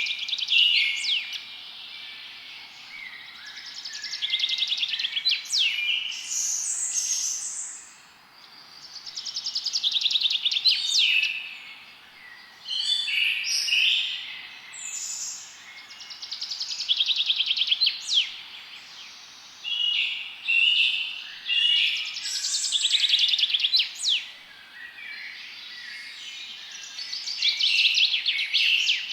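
Forest songbirds singing: phrases of rapid chirping trills and quick sweeping notes come every few seconds, over a faint steady hiss.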